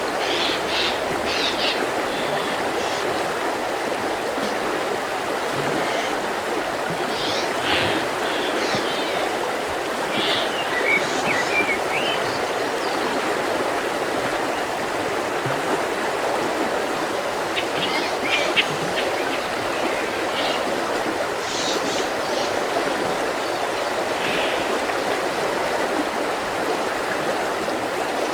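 Mountain river rushing steadily over rocks, with small birds chirping in short, high calls at intervals throughout.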